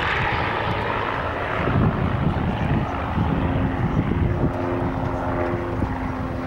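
Piston-engined propeller aerobatic aircraft flying a display, a continuous engine and propeller drone. A steadier engine note comes in about halfway through.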